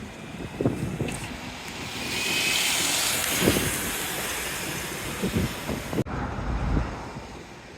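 A road vehicle passes, its noise swelling over a couple of seconds and then easing, while gusts of strong wind buffet the microphone. The sound cuts off abruptly about six seconds in.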